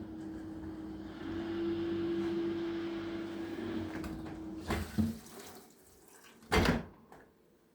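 Beko D1 dishwasher running with a steady motor hum and water sloshing. The hum stops a little before the middle, followed by a couple of clunks and a short, louder rush of water, then quiet.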